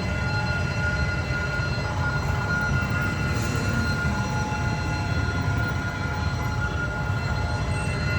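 Passenger train hauled by a D19E diesel-electric locomotive rolling past at close range: a steady low rumble with a thin, constant high whine over it.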